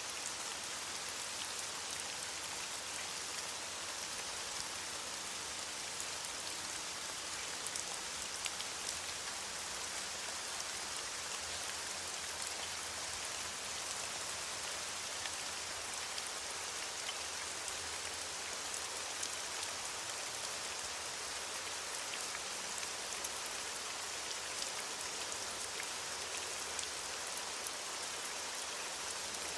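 Steady rain falling on leaves: a continuous hiss scattered with countless small drop patters.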